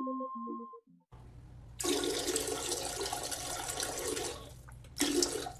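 Water rushing loudly for about two and a half seconds, then a shorter second gush near the end, after the last notes of a short tune.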